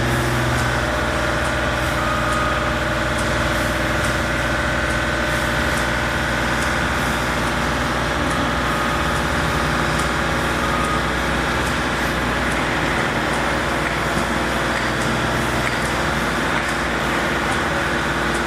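A large engine running steadily, with a constant rumble and a faint, regular ticking.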